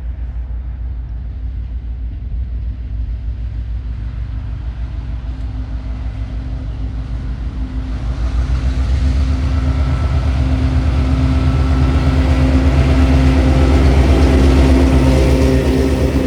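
Diesel locomotives of a TasRail freight train, 2053, TR13 and TR11, approaching with their engines running, a deep pulsing engine note that grows steadily louder and is loudest near the end.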